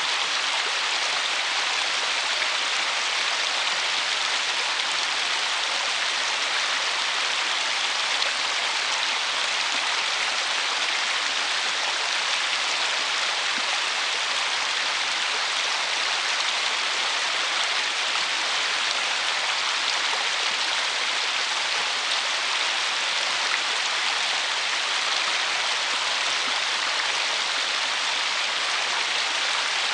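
River water running steadily over a shallow riffle, an even rushing noise with no breaks.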